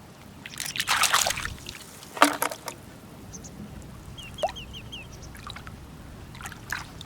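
Wet sand and shallow seawater sloshing and trickling as hands dig for shellfish, with two louder splashy bursts about one and two seconds in. A quick run of faint, short high chirps comes around the middle.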